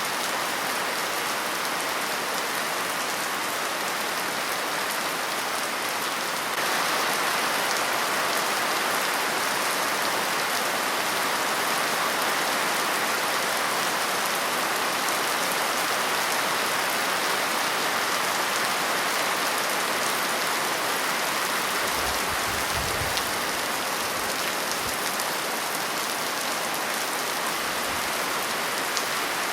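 Steady rain falling, growing a little heavier about six seconds in. A brief low rumble comes and goes a few times past the middle.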